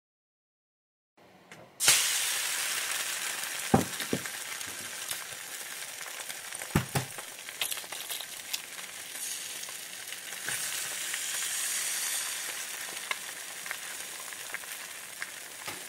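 Silence, then about two seconds in food starts sizzling in a frying pan, steady to the end, with a few knocks against the pan.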